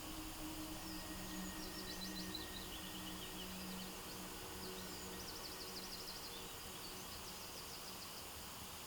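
Faint birdsong: a small bird sings several short, rapid trilled phrases over steady outdoor background hiss, with a faint low steady hum underneath.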